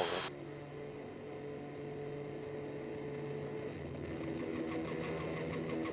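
Tour helicopter in flight, heard inside the cabin: a steady engine and rotor drone with a faint held hum.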